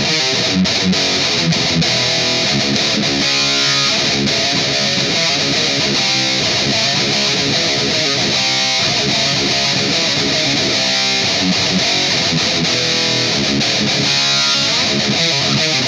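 Electric guitar through distortion playing heavy riffs, with a few stretches of fast repeated picking.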